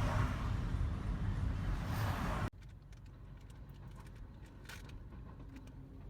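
Car road noise and engine rumble heard from inside the moving car's cabin. It cuts off abruptly about two and a half seconds in, leaving a much quieter background with a few faint clicks.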